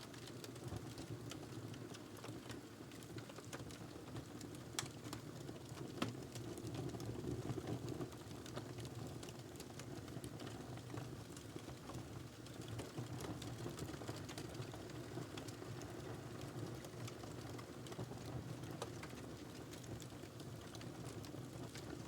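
Wood fire crackling in a fireplace: a steady low rumble of the burning fire with scattered small pops and snaps, two sharper pops about five and six seconds in.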